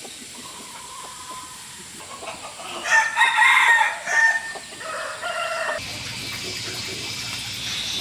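Rooster crowing: one loud, drawn-out crow about three seconds in, followed by a shorter, lower call.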